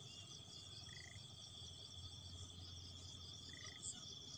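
A steady chorus of insects such as crickets, high-pitched and fast-pulsing, with two short chirping trills, one about a second in and one near the end.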